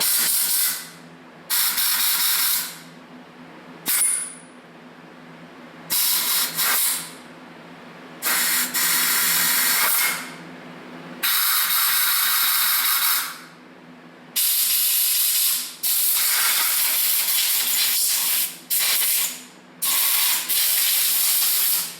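Compressed air from an air hose blowgun hissing in about a dozen short bursts, some a second or two long, as it blows out the passages of a sandblasted Zenith carburetor body.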